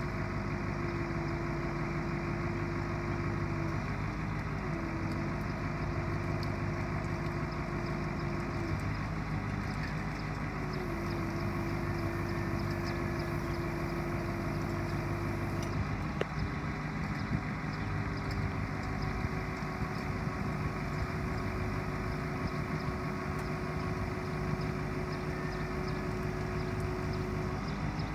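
1990 Ford C8000 bucket truck's engine running steadily at idle, with a steady whine over it that dips and shifts in pitch a few times.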